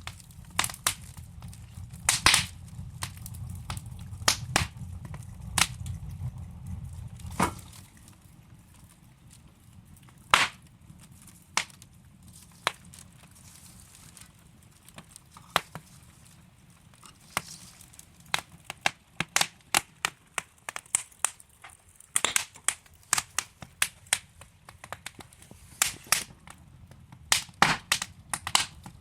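Burning wood logs crackling in a fireplace, with sharp, irregular pops, some much louder than others and more frequent towards the end. A low rumble underneath stops about a quarter of the way in.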